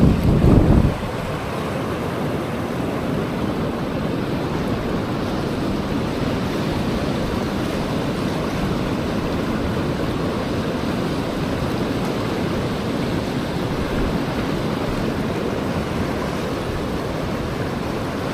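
A steady rushing noise with no distinct events, after a louder low buffeting rumble that stops about a second in.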